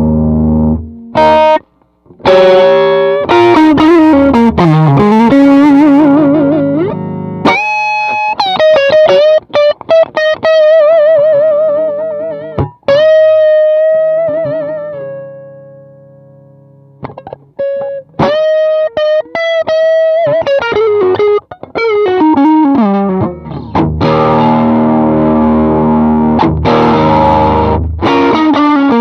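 Electric guitar played through a 68 Pedals Inca Kola, a Zendrive-style overdrive pedal, with a mildly distorted tone. It opens on ringing chords, moves into single-note lead lines with bends and vibrato, lets one note fade out about halfway, then returns to lead phrases and strummed chords near the end.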